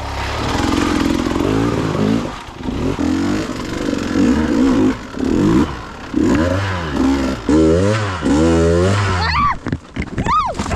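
Dirt bike engine running, then revved up and down in a string of quick blips through the second half.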